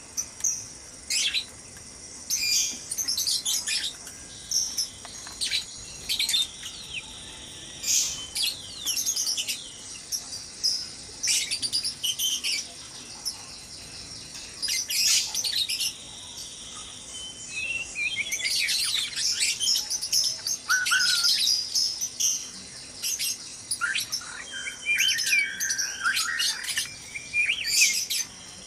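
White-rumped shamas calling in a busy, overlapping run of short chirps, trills and whistled notes, some sliding in pitch.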